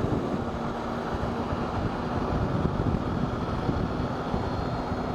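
Motorcycle riding along with its engine running at a steady pitch, under a constant rush of wind noise on the microphone.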